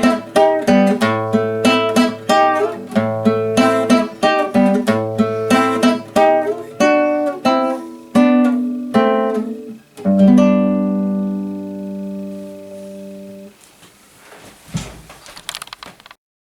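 Acoustic guitar playing the instrumental end of a song, plucked notes in a steady pattern, then a final chord about ten seconds in that rings out and fades. A few faint ticks follow before the sound cuts off suddenly.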